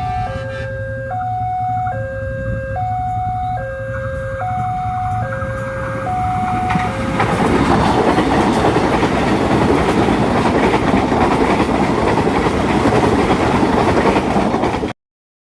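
A two-tone warning alarm alternating between a high and a low note, changing about every 0.8 s, over a low rumble. About seven seconds in, a passing train's loud rushing and rumbling noise swamps it, then the sound cuts off suddenly near the end.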